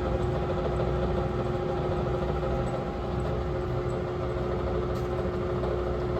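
LeBlond Regal Servo Shift toolroom lathe running under power at a set spindle speed: a steady mechanical hum with a few held whining tones, unchanging throughout.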